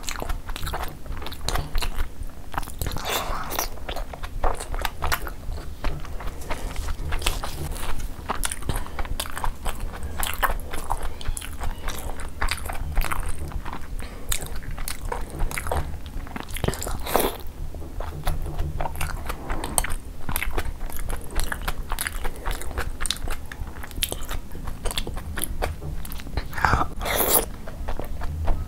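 Close-miked chewing and wet mouth sounds of a person eating soft chicken momos soaked in gravy, with frequent short smacks and clicks, over a low steady hum.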